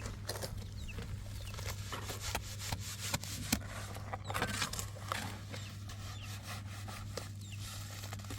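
Intermittent scraping and rubbing with scattered clicks and knocks, over a steady low hum.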